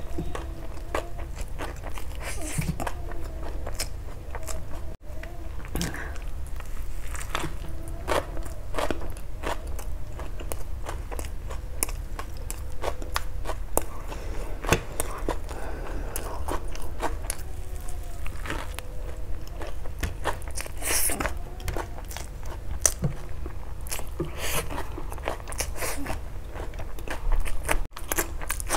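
Close-miked eating sounds: biting into and chewing a chicken burger, with many sharp wet mouth clicks.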